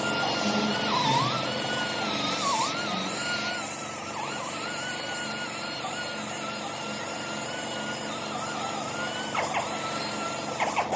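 A power tool running with a steady high whine that dips in pitch a few times in the first few seconds, as if briefly loaded. A few sharp clicks come near the end.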